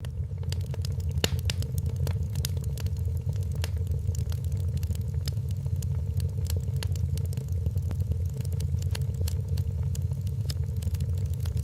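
Wood fire crackling in a fireplace, with frequent sharp pops and snaps at irregular intervals over a steady low rumble and a faint steady hum.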